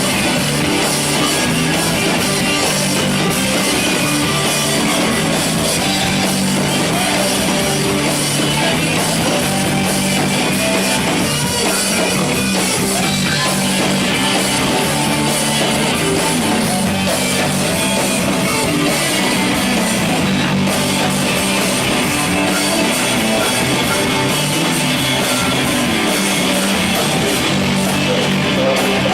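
Live rock band playing an instrumental passage on guitars and drum kit, the music dense and steady throughout.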